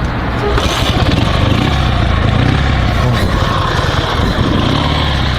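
Dnepr MT16 sidecar motorcycle's 650 cc twin engine running steadily on the move, with wind rushing over the microphone.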